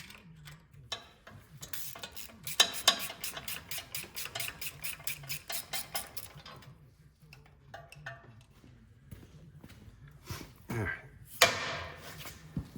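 Large ratchet wrench with a 2 9/16-inch socket clicking in a quick, even run as the Bobtach pivot-pin retaining bolt is backed out, with metal tool clinks and a couple of sharp metal clanks near the end.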